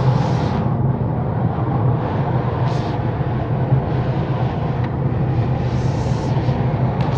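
Car driving along a road: a steady engine drone and tyre and road noise, with a few brief swells of hiss.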